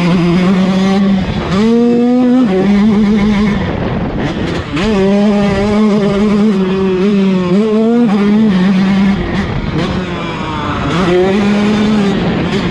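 KTM 150 SX single-cylinder two-stroke dirt bike engine running hard on the throttle, its note rising and falling. It drops off briefly about four seconds in and again around ten seconds before picking back up.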